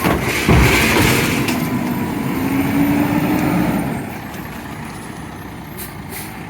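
Garbage truck working: heavy mechanical running noise with a couple of knocks about half a second in and a steady whine in the middle, quieter over the last couple of seconds.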